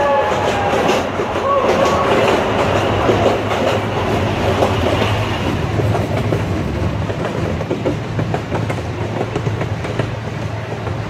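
Miniature park train running on narrow-gauge track, wheels clicking rapidly over the rails over a steady low rumble, the noise echoing inside a tunnel.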